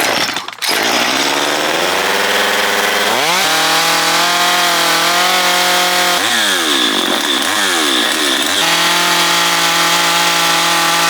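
Small Stihl two-stroke carving chainsaw revving up over the first few seconds and then held at high revs, with the throttle blipped up and down several times around the middle before running high and steady again.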